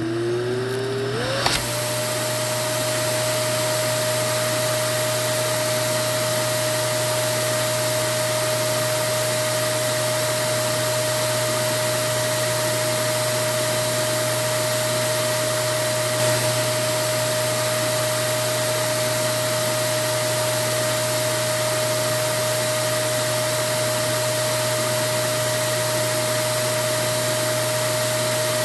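Vacuum cleaner motor winding up with a whine that rises over the first second and a half. It then runs steadily, a constant whine over an even rush of air.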